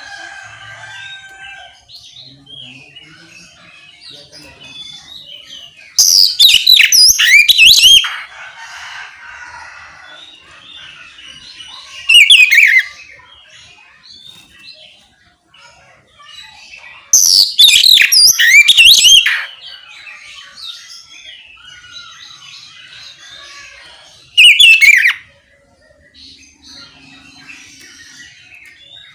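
Oriental magpie-robin (kacer) singing in loud, rapid bursts of high, sweeping whistled notes. There are four bursts: two long ones of about two seconds and two short ones. Fainter chirping runs between them.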